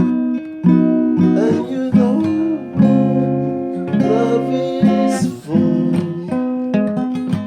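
Instrumental music: strummed acoustic guitar chords in a steady rhythm.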